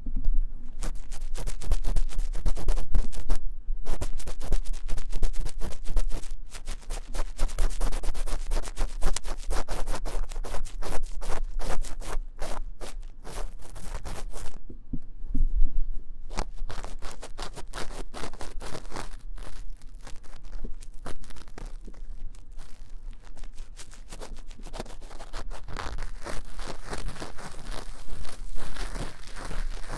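Ear-cleaning tool scratching fast and vigorously inside the silicone ear of a 3Dio binaural microphone: dense, rapid scraping strokes, with short pauses about four seconds in and about halfway through.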